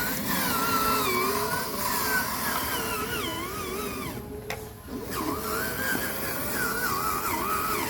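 Electric motor and gears of an RC truck whining, the pitch rising and falling as the throttle is worked, with a brief cut-out about four seconds in.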